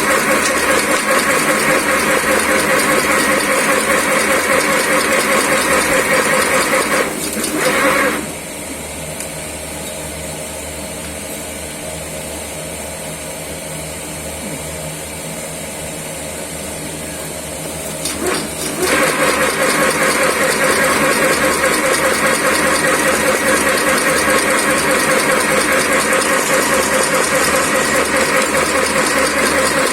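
Agarbatti (incense-stick) making machine running steadily with an even, rapid mechanical rhythm. About a quarter of the way in it drops away to a lower hum for about ten seconds, then starts up again at full strength.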